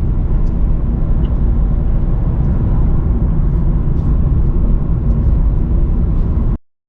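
Steady low rumble of a moving road vehicle heard from inside its cabin, engine and road noise, cutting off abruptly near the end.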